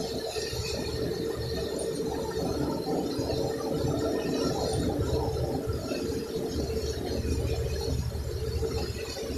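Motorboat's engine running steadily, heard from inside the cabin, with a low rumble of hull and water noise that swells and eases.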